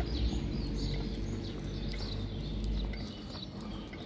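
Birds chirping over a steady low rumble that eases off about three seconds in.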